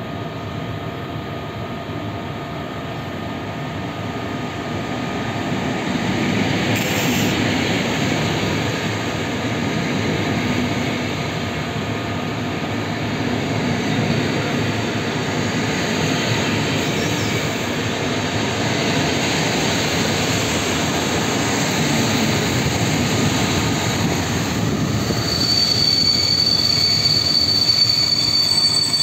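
PKP Intercity passenger train, led by an EP07 electric locomotive, pulling into the station with its coaches rolling past on the rails. It grows louder a few seconds in as the train comes alongside. Near the end a high, steady wheel squeal sets in as the train slows to stop.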